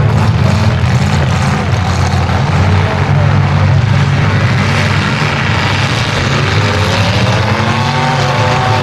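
Demolition derby cars' engines running loud and revving, with the pitch rising and falling near the end. Voices are mixed in.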